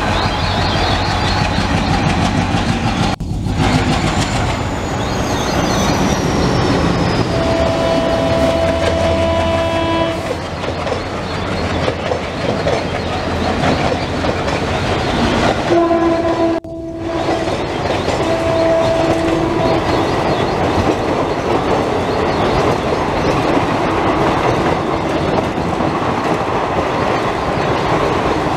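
Diesel-hauled Indian Railways express, led by a WDM 3A locomotive, running through a station: the steady rumble and wheel clatter of the passing coaches, with a train horn sounded for a couple of seconds about a third of the way in and again near the middle.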